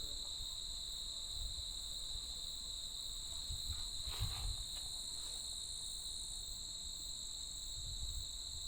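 Steady chorus of singing insects, a continuous high trill, over a low rumble, with a few faint rustles about halfway through.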